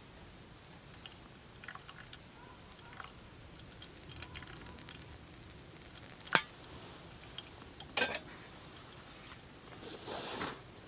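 Scattered small clicks and light knocks. The sharpest comes about six seconds in, a few follow close together about two seconds later, and a short rustle comes near the end.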